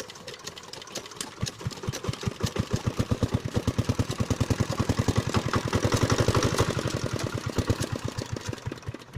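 Single-cylinder Chinese diesel irrigation engine being turned over by hand, its chuffs quickening to about eight a second and then slowing and dying away near the end: the engine does not keep running, a start attempt judged too weak.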